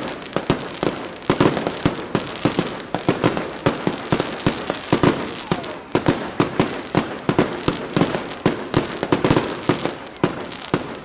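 Daylight fireworks going off in a dense barrage: sharp bangs several times a second, overlapping one another without a break.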